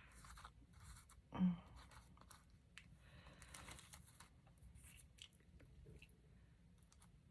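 Faint crinkling and small clicks of a plastic package of dried flowers being handled while a single delicate flower is picked out.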